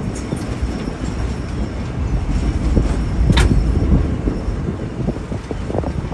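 Train running along the track behind steam locomotive No. 11: a steady low rumble of wheels on rail with irregular knocks, and one sharp clank a little past halfway.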